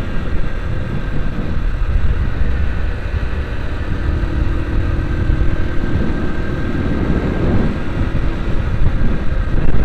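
Vehicle driving along a highway: steady engine and road rumble, with a faint steady hum over it.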